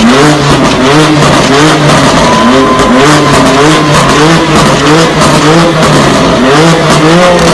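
A supercar engine being revved again and again in quick throttle blips, each rev rising and falling in pitch, about three every two seconds.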